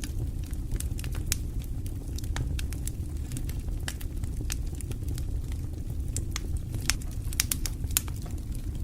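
Wood fire burning in a fireplace: a steady low rumble of the flames with irregular sharp crackles and pops, a few louder pops about six to eight seconds in.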